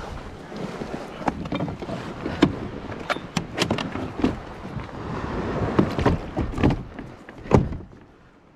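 Wind and water around a kayak, with a string of sharp knocks and splashes; the loudest comes near the end.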